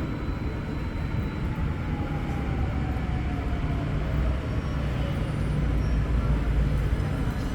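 Light-rail train rumbling low and steady, with a faint whine that falls slowly in pitch as it slows down.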